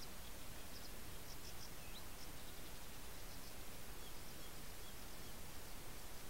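Faint, short, high bird chirps in small irregular groups, with a couple of brief sliding notes, over the steady hiss of a trail camera's microphone.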